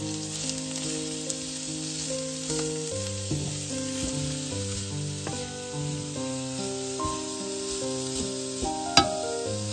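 Grated carrot and diced onion sizzling gently in a frying pan while a wooden spatula stirs them, with small scrapes and taps against the pan and one sharp knock about nine seconds in. Soft instrumental music plays underneath.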